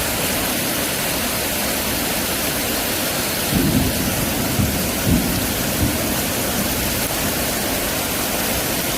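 Heavy rain pouring steadily in a thunderstorm, with a few brief low rumbles around the middle.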